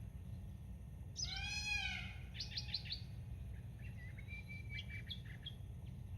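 Birds calling: a harsh, arching call about a second in, then a quick run of about five short notes and a varied twittering phrase, over a steady low background rumble.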